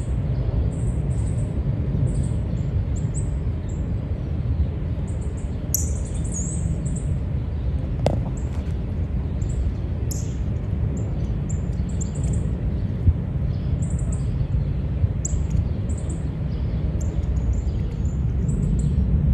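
Small birds chirping, many short high chirps throughout, with a brief falling call about six seconds in, over a steady low rumble. A single sharp click about eight seconds in.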